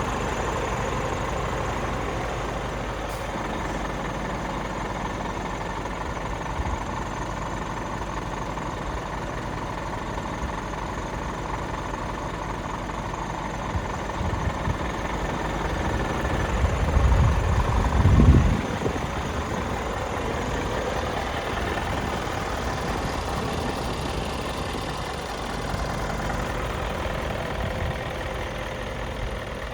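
Scania R490 tractor unit's 13-litre inline-six diesel running steadily at idle. A low rumble swells for a few seconds, peaking about 18 seconds in, then settles back.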